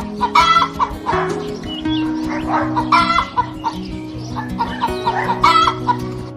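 Chickens clucking, with loud calls about every two and a half seconds, over background music with steady held notes.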